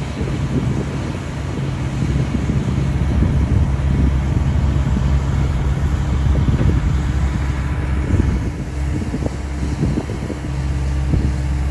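New Holland combine on the move, its engine running with a steady low drone, heard from inside the cab.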